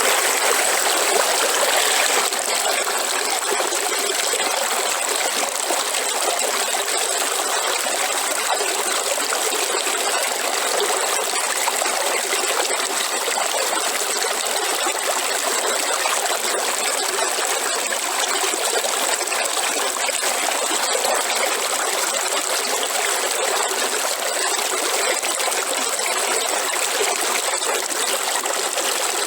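Waterfall: falling water making a steady, even rush and splash, a little louder in the first couple of seconds.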